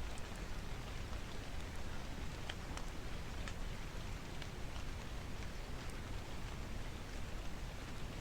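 Steady rain, an even hiss dotted with scattered faint sharp ticks.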